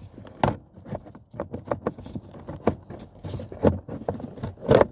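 Irregular plastic clicks, taps and rustles from handling the cabin (pollen) filter housing and lifting out the old filter, with the loudest knock near the end.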